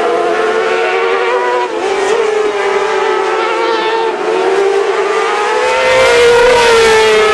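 Racing sport bikes running at high revs on track, the engine note rising and falling as they accelerate and shift, getting louder near the end.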